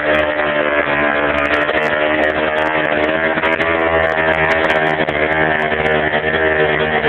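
Gasoline engine of a Wright B-520 reciprocating-blade saw running steadily, its pitch wavering a little.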